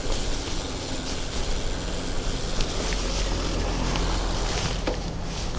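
Road traffic noise with wind on the microphone, heard from a bicycle. A nearby motor vehicle's steady engine hum swells through the middle and eases off near the end.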